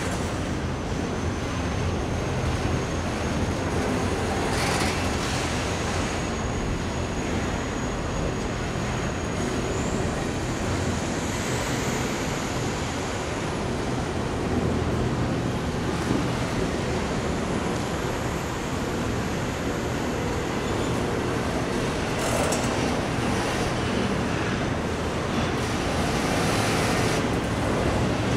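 Double-stack intermodal freight train rolling past: a steady rumble of wheels on rail, with occasional clanks. A thin, high squeal holds at one pitch and then rises about ten seconds in, fades, and comes back for a few seconds later on.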